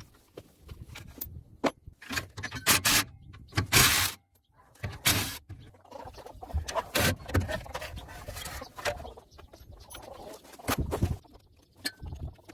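Irregular metal tool clanks, clicks and short bursts of tool noise from work on a car's gearbox mounting bolts with socket extension bars and an impact driver.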